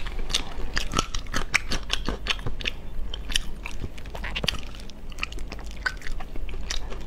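Close-miked chewing and biting of glossy braised meat, with a busy run of short clicks and mouth smacks, several a second.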